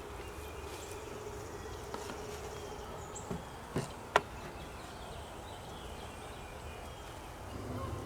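Honeybees buzzing around an open nuc box, a steady hum that fades about three seconds in. Two sharp clicks come a little before halfway.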